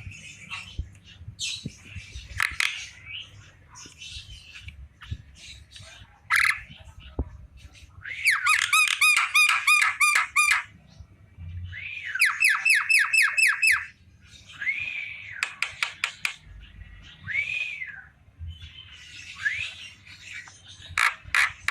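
Javan myna calling: scattered harsh chattering notes, then two runs of rapid repeated notes at about four a second, followed by a few single rising-and-falling notes.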